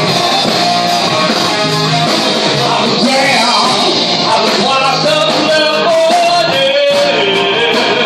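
Live rock band playing a cover song with loud amplified guitars and drums, and a voice singing over it from about three seconds in.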